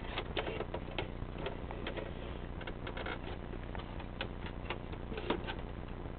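Electric table fan motor running with a steady low hum, with scattered irregular light clicks and taps over it.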